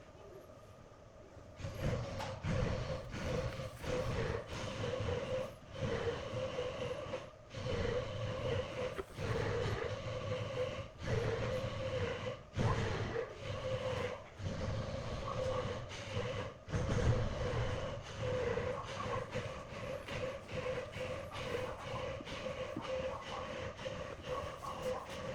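A workshop power tool running with a steady pitched hum and low rumble, starting about a second and a half in and broken by many brief dips.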